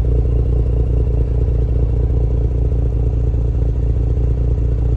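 Audi B9 S5 engine idling steadily, heard at its twin exhaust tailpipes. It runs only with the camshaft position sensors unplugged; the mechanic believes a failed rocker arm has popped off its seat and damaged a cam trigger wheel.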